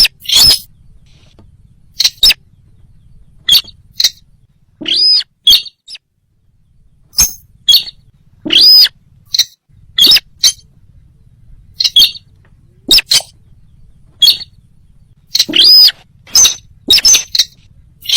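Loud, sharp bird calls of the sintar, repeated irregularly about once a second, with a few longer arching notes among them. This is a recorded bird call played as a hunting lure.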